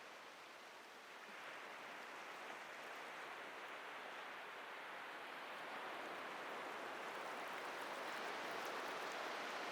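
Atlantic ocean surf: a steady rush of waves breaking and washing up the beach, slowly growing louder from about a second in.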